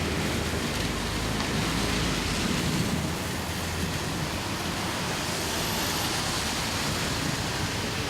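Steady heavy rain hiss. A vehicle's low engine hum fades out in the first second.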